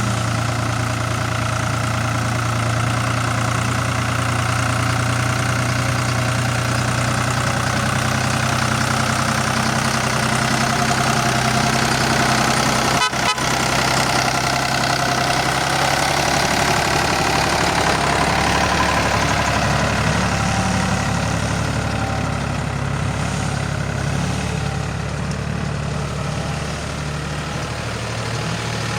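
Engine of a log-hauling vehicle running steadily, with a brief break in the sound about halfway through; in the second half its pitch rises and falls as the engine works under changing load.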